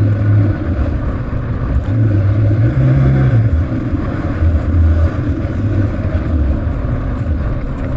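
Honda XR650R dirt bike's single-cylinder four-stroke engine running on a downhill trail ride, its pitch rising and falling every second or so with the throttle.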